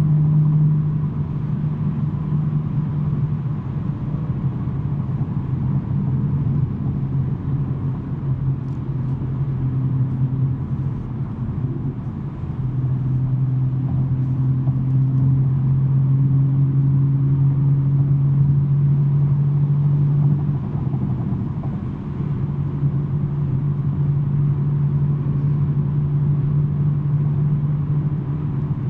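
2023 BMW M3 G80's twin-turbo inline-six with a non-resonated J-pipe, cruising with a steady low exhaust drone. The drone shifts in pitch and loudness a few times: down about a second in, louder around twelve seconds, and a brief dip around twenty seconds.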